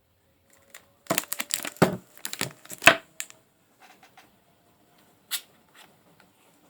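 Something crinkly being handled: a dense run of crinkling and crackling lasting about two seconds from a second in, then a single sharp crackle later on.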